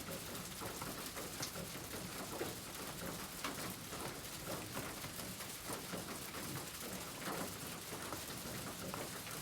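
Steady rain patter, an even hiss dotted with many small sharp drop ticks.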